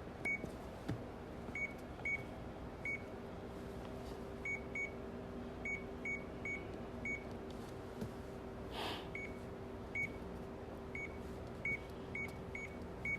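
A keypad beeping, about fifteen short high beeps at uneven spacing, over a steady low hum. These are button presses on the console of a stair-climbing machine.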